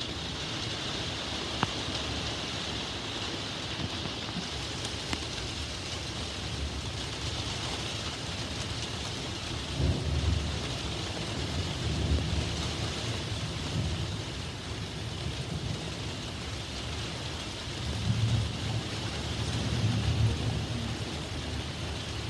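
Steady heavy rain falling, with low rolls of thunder rumbling up twice, about ten seconds in and again near the end.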